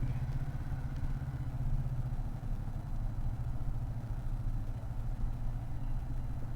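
Chinese-made motorcycle engine running steadily at an even, low pitch, like an idle.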